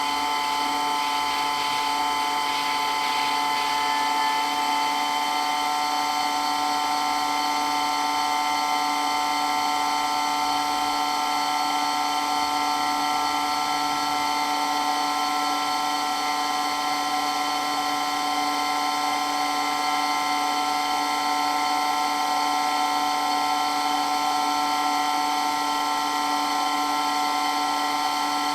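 Water-blasting water pump running steadily, a constant machine hum with a high, even whine that does not change.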